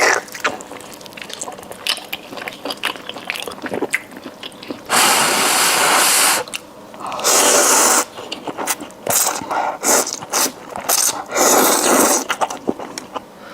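Close-miked eating sounds: wet mouth clicks and smacks while eating a hot braised pig trotter and noodles, broken by three long hissing rushes of air, the loudest about halfway through.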